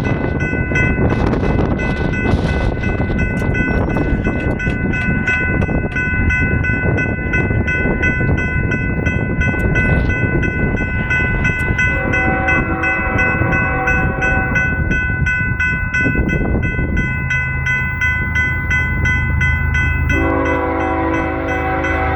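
An approaching GE ES44AC diesel freight locomotive sounds its five-chime Nathan K5HL horn. One long chord comes about twelve seconds in, and another starts near the end. Under it are the rumble of the train and the steady, repeating dings of a grade-crossing bell.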